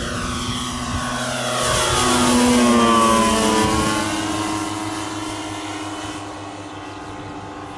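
Giant-scale radio-controlled model of a Transall C-160 flying past, its twin propellers droning, swelling to loudest about two and a half to three seconds in while the pitch slides down as it passes, then fading away.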